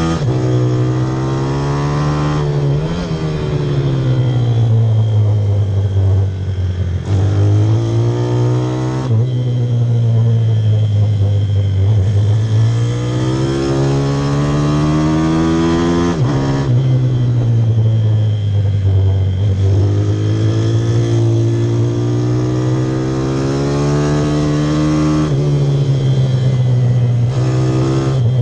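Pit bike's small single-cylinder engine running hard, its note rising and falling with the throttle and stepping abruptly several times as it changes gear.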